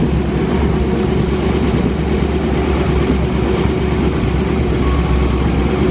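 Drag race car engine idling steadily.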